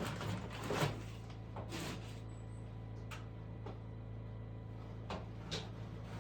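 A few light knocks and scrapes, scattered and irregular, over a steady low hum.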